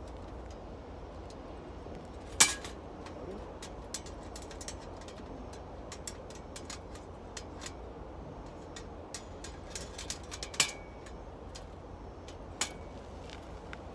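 Wood fire crackling: scattered small ticks and pops, with three louder snaps, a couple of seconds in, about ten seconds in and near the end, the two loudest ringing briefly.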